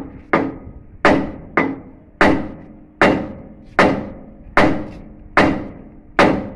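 Heavy hammer striking steel about ten times at an even pace, each blow ringing briefly: knocking the king pin out of a JCB front axle spindle without a puller.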